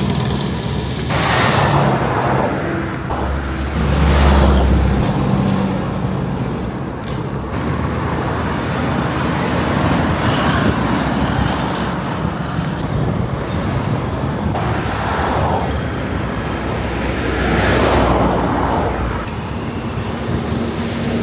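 Roadway traffic with heavy trucks: a steady low engine rumble, with several vehicles rushing past one after another.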